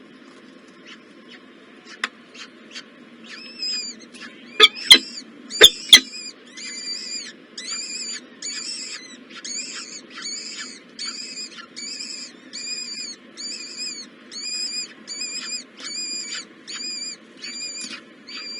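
Nestlings begging in the nest: short high-pitched calls repeated steadily about twice a second, starting a few seconds in. A few loud sharp clicks come just as the calling starts.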